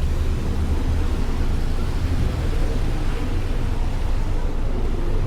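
City street traffic: a steady low engine rumble under an even wash of road noise.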